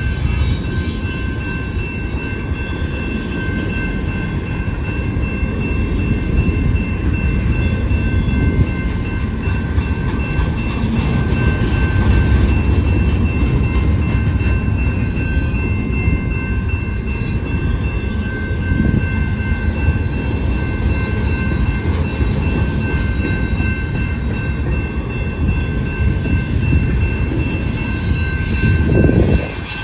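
Double-stack intermodal freight cars of a Canadian Pacific train rolling past on the rails: a steady, loud rumble and clatter of wheels and cars, with a faint steady high ringing above it and a brief louder surge near the end.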